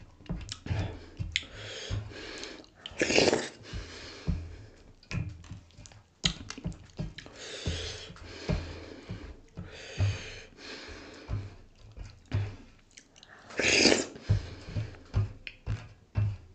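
Close-miked chewing and lip-smacking of a mouthful of dhido (thick grain porridge) with sisnu (nettle curry), a run of short wet clicks. Two louder breathy noises come about three seconds in and near the end.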